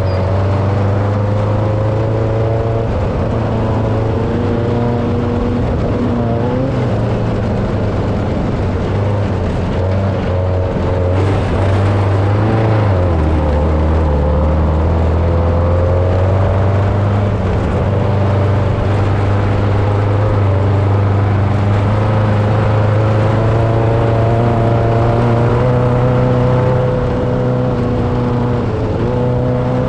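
Car engine running steadily at speed, its pitch drifting slowly up and down, with the low note stepping down about 13 seconds in.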